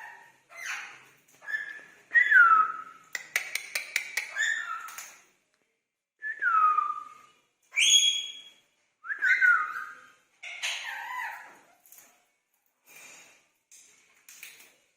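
Indian ringneck parrots making short whistles and chattering calls in separate bursts, several of them falling whistles, with a quick run of clicks about three to four seconds in.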